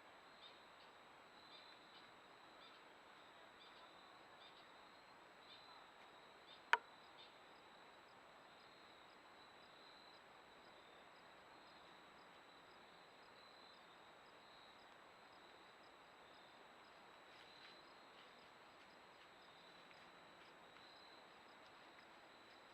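Quiet woodland ambience: faint insects chirping in small repeated pulses over a steady hiss, with one sharp click about seven seconds in.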